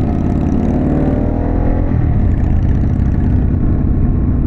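Harley-Davidson Pan America's Revolution Max V-twin engine, fitted with a Vance & Hines exhaust, pulling under acceleration. Its pitch rises for about two seconds, then it runs steadily at cruising speed.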